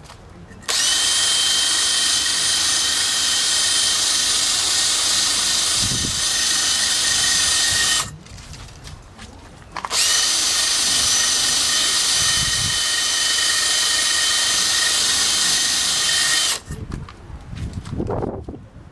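Power drill running in two long, steady bursts of about seven and six seconds, each spinning up quickly and then stopping abruptly, with a high whine. It is being used to clean around the tyre bead seat of a wheel rim to cure a slow leak.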